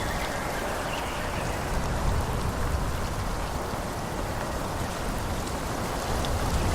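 Steady forest wind: an even rushing hiss through the trees, with a low rumble underneath.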